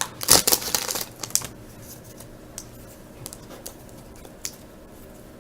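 2000 Bowman football trading cards being flipped through by hand: a quick run of slides and clicks in the first second and a half, then a few scattered soft ticks.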